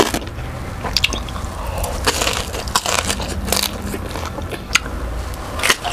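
Chewing crispy deep-fried pork belly (lechon kawali), with irregular crunches of the crackling skin between softer chewing.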